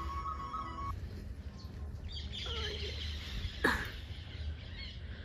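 Birds calling and chirping, with one short, loud call that drops sharply in pitch about three and a half seconds in. A steady held tune in the background stops about a second in.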